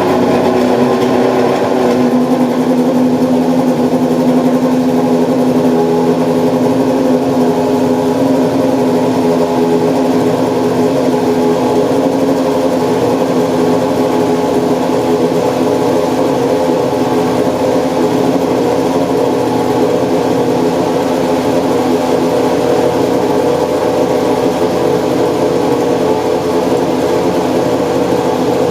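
Toyota Prius apr GT GT300 race car's engine just after start-up: a little higher and brighter for the first two seconds, then settling into a steady, loud idle.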